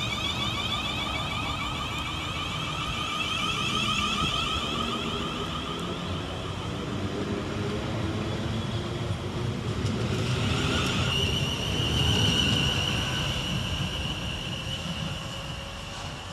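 Class 450 Desiro electric multiple unit pulling out, its traction equipment whining in several tones over running noise. About ten seconds in the whine settles into one steady, higher tone.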